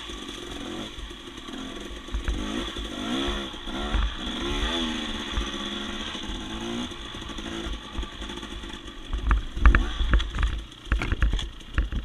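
Dirt bike engine being ridden on a tight trail, its pitch rising and falling as the throttle opens and closes. From about eight seconds in, a rapid run of knocks and thumps covers the engine.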